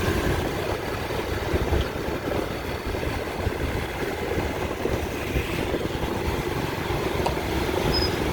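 Steady rush-hour street traffic: motorbike, car and tuk-tuk engines running and passing, a continuous rumble.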